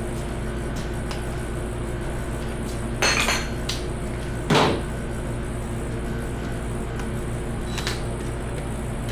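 Hand tools clanking on metal engine parts during a V8 teardown: two sharp metallic clanks about a second and a half apart, the second louder and heavier, over a steady shop hum.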